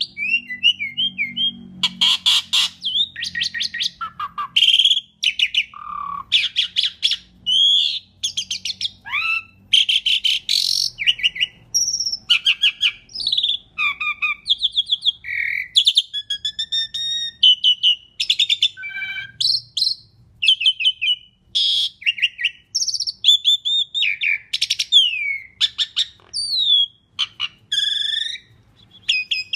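Asian pied starling (jalak suren) singing a long, varied song with almost no pauses: rapid rattling chatter, gliding whistles and harsh squawky notes.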